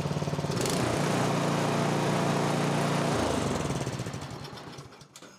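MTD snowblower's small gasoline engine running steadily after its carburettor was cleaned of stale ethanol fuel, then shut off about three seconds in and dying away to near silence.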